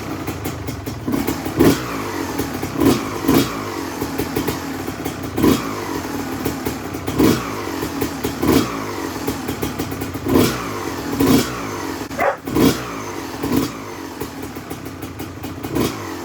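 Freshly rebuilt 1994 Honda CR250R two-stroke single-cylinder engine running on its first startup for a break-in heat cycle. It idles between repeated quick throttle blips that rev it up sharply every second or two.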